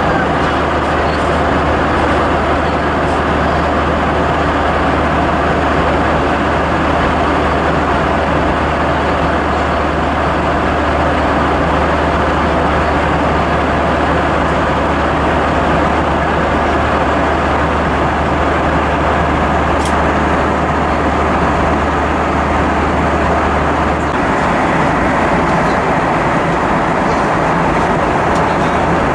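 Steady cabin noise inside an Airbus A320: an even rush of airflow and engine noise, with a low hum underneath that drops away about 24 seconds in.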